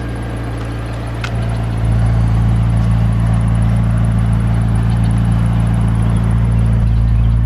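McLaren 650S Spyder's twin-turbo V8 idling with a steady low hum that gets louder about two seconds in. A single sharp click is heard just over a second in.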